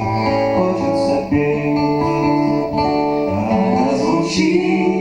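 Instrumental passage of a song: guitar playing over sustained bass notes.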